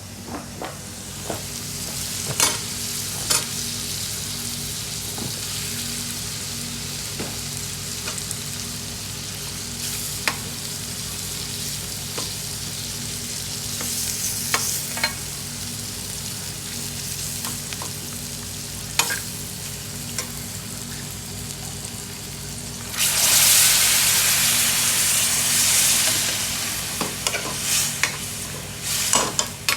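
Food frying in a pan, with a metal utensil stirring and knocking against it, over a steady low hum. A loud burst of sizzling rises about 23 seconds in and lasts about three seconds.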